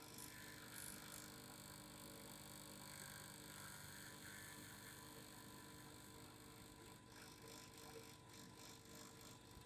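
Faint, steady hum of a vibrating device, with a few fixed tones held throughout.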